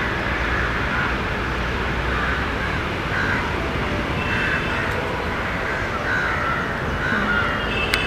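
Steady outdoor background rumble and hiss, with birds calling over it again and again in short repeated calls.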